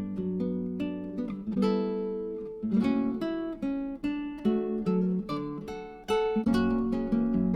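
Background music: acoustic guitar playing a gentle plucked and strummed melody.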